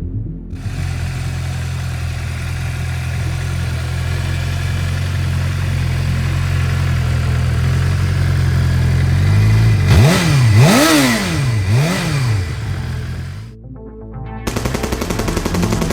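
Suzuki GSX-R 600 K8 inline-four motorcycle engine idling steadily, then revved three times in quick blips, pitch rising and falling each time. After a brief dip near the end, a rapid, evenly repeating clatter follows.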